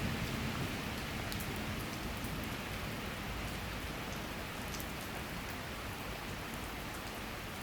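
Steady summer rain shower: an even hiss of falling rain, with scattered drops ticking.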